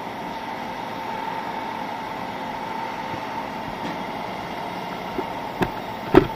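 Steady mechanical hum with a faint high steady tone in it, from a parked truck left running. Two short sharp knocks near the end, the second louder.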